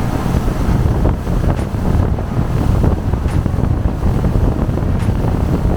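Loud, steady wind buffeting on the microphone aboard a moving boat, with the rush of water and the boat's running noise beneath.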